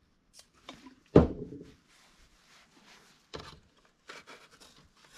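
Handling sounds while cleaning around a leaf blower's spark plug hole: a sharp knock about a second in, a lighter knock a little past three seconds, and faint rubbing and small clicks between.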